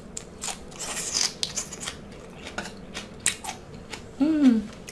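Close-up crisp crunching of deep-fried salt-and-pepper shrimp shell being bitten and chewed, in many sharp irregular crackles. A short hummed "mm" comes near the end.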